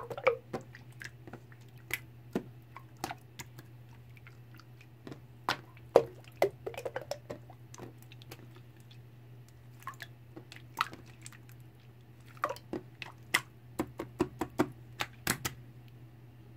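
Slime being squeezed and pressed by hand, making irregular sticky clicks, pops and squishes, with quick runs of pops about a third of the way in and again near the end.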